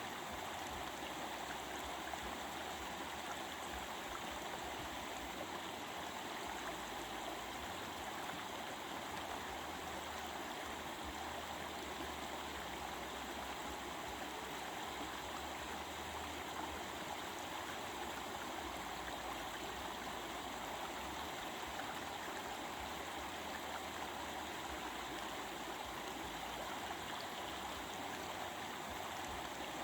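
A stream's running water babbling and splashing, steady and unbroken.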